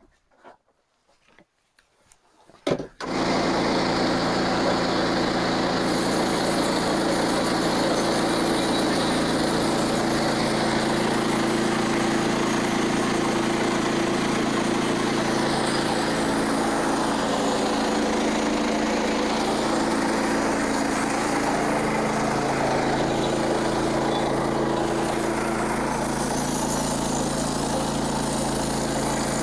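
Sawmill's small gasoline engine starting about three seconds in, then running steadily at a constant speed.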